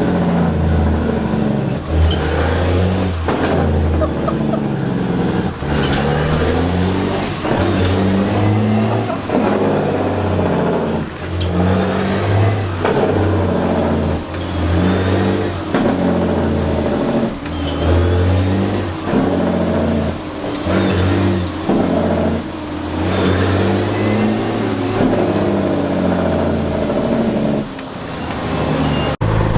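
Semi-truck diesel engine revving and pulling through the gears. Its pitch climbs and then drops at each shift, over and over.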